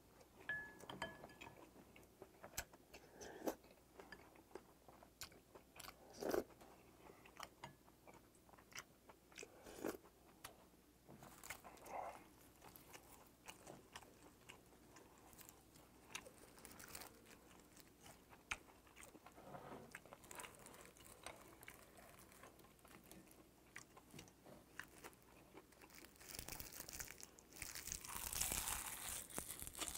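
Close-up chewing and biting of a mouthful of bibimbap, with many short wet mouth clicks. Near the end, a longer, louder crackling stretch as crisp seasoned laver is bitten and chewed.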